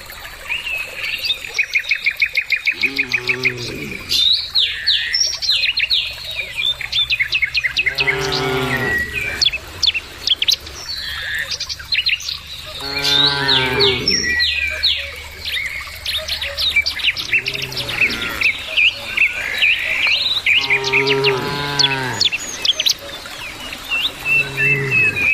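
Cattle mooing: about six long, low moos from the herd, spaced several seconds apart, over steady high birdsong chirping throughout.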